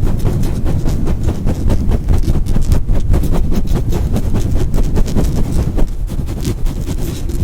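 Aggressive scratching and brushing directly on a microphone: rapid, loud rubbing strokes with a heavy low rumble, with no pause.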